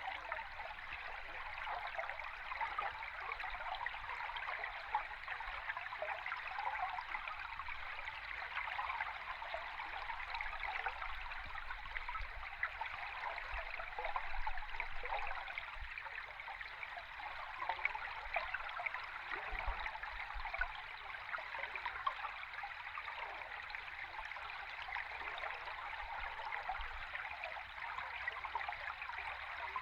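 A river stream recorded underwater: a steady, even sound of flowing water, mostly in the middle and upper range, with faint low rumbles now and then.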